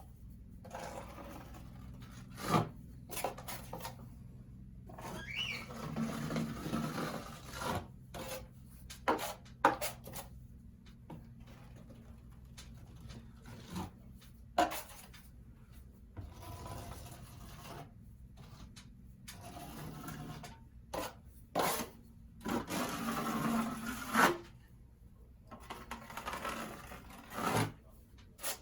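A hand tool scraping and rubbing on the drywall ceiling in irregular strokes of a second or two, with sharp taps and knocks in between.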